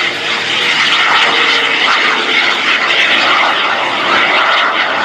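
Jet-powered Super Salto sailplane's small jet engine running during takeoff, a steady rushing hiss.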